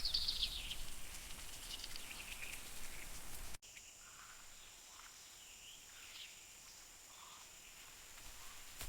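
Rainforest ambience: a bird gives a run of falling chirps, then the sound cuts off abruptly about a third of the way in to a quieter stretch with scattered faint bird calls over a steady high insect hiss.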